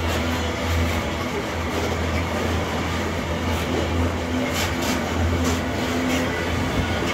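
Loaded iron-ore gondola wagons rolling past close by, steel wheels on the rails making a steady low rumble, with a few sharp clicks a little past halfway.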